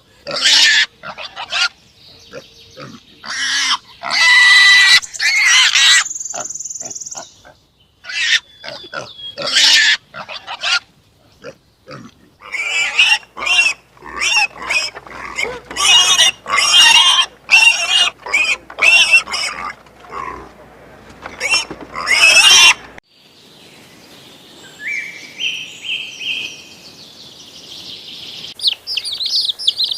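Animal calls: a long run of short, loud, harsh cries, some in quick series, giving way about three quarters of the way through to softer, high bird chirping.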